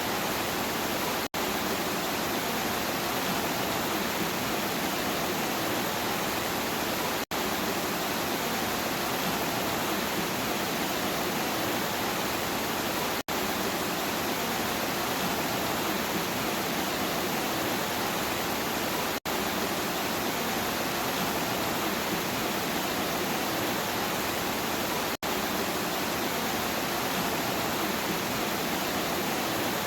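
Steady rain noise, a dense even hiss without distinct drops, cut by a split-second dropout about every six seconds.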